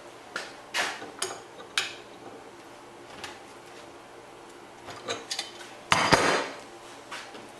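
Steel parts clinking and clanking as they are handled and fitted together: several light clinks, then a louder ringing clank about six seconds in.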